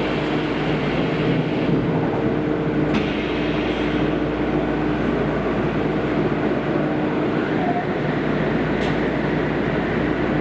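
Kobe City Subway 5000-series linear-motor train running in the tunnel, heard from inside the car: a steady rumble with a constant electric hum, and a couple of faint clicks.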